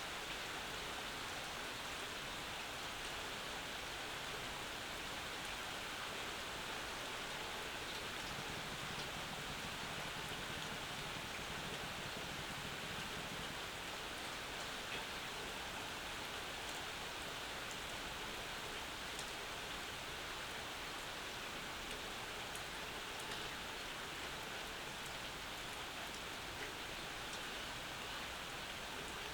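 Steady summer rain falling on and around a porch, an even hiss with scattered sharper drips.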